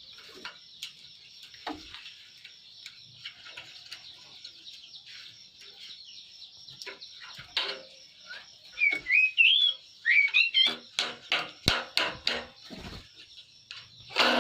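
Oriental magpie-robin (kacer) singing: a quick rising-and-falling warble, then a run of short repeated notes about four a second, over a steady high chirping. A loud harsh call comes at the very end.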